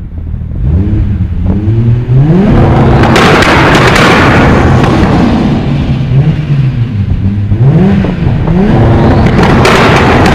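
Nissan Silvia's turbocharged four-cylinder engine under hard acceleration. Its pitch climbs in several quick steps, runs high and loud, sags about six to seven seconds in, then climbs again.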